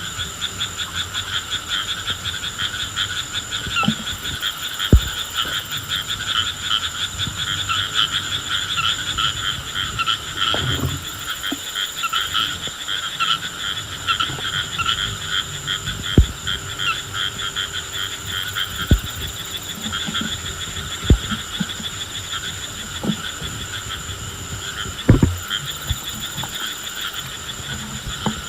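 A dense chorus of frogs calling in rapid, unbroken trills, with a steady high whine behind it. A few short low thumps are scattered through.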